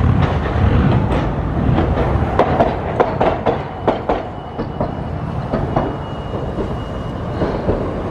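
Hiroshima Electric Railway streetcar running on street track: a low rumble with a quick series of wheel clacks over the rail joints, densest in the middle, then easing off.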